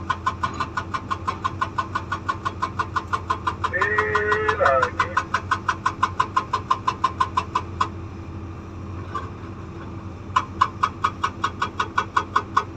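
Hydraulic rock breaker (SAGA 288H on a Komatsu PC200 excavator) hammering stone at about six blows a second over the excavator's steady engine hum. The hammering stops about eight seconds in and starts again some two and a half seconds later; a short voice is heard around four seconds in.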